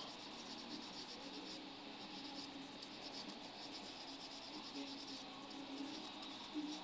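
Faint, steady rubbing on the primed plastic body of a scale-model truck.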